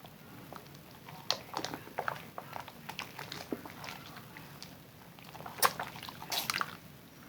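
Zest bar soap being lathered: irregular small clicks and crackles, with a sharper one a little over five seconds in and a denser run just after.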